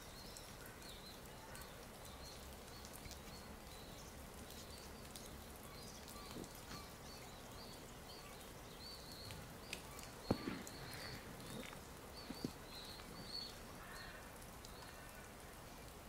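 Small birds calling faintly, short high chirps repeated every second or so over a soft steady hiss. A sharp click about ten seconds in, with a few softer knocks after it.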